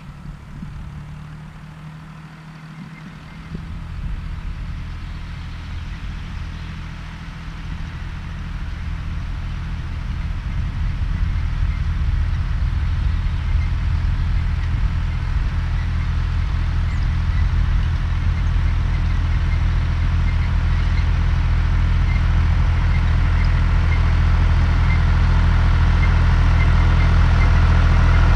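John Deere 1030 tractor's three-cylinder diesel engine running at a steady speed while tedding hay, getting steadily louder after a brief dip a couple of seconds in.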